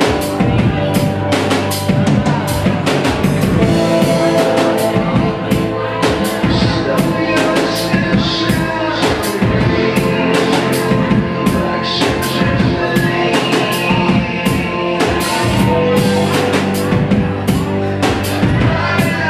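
Live band music: a drum kit keeps a busy beat with kick drum and rimshots over sustained instrument chords.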